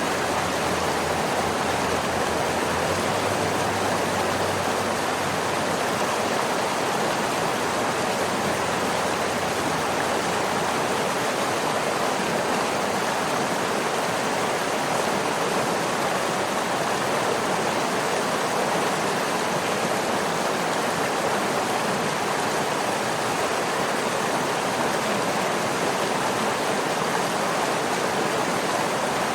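Waterfall: water falling and rushing in an even, unbroken roar of noise.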